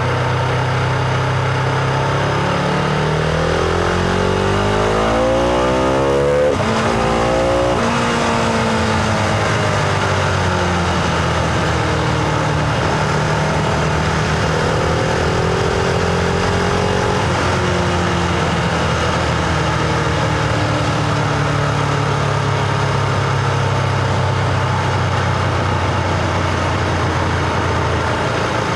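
Husqvarna Vitpilen 701's single-cylinder engine under way. It revs up through a gear from about two seconds in, breaks off at an upshift around six and a half seconds, pulls briefly again, then eases off. Later a smaller rise and fall over steady rushing noise.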